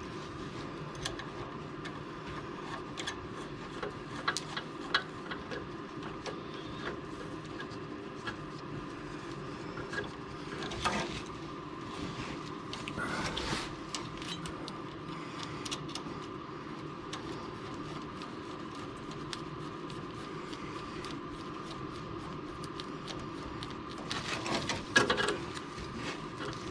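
Scattered light metal clicks, taps and scrapes of hand tools on a bolted universal exhaust hanger as it is fitted to a car's exhaust bracket, over a steady background hum.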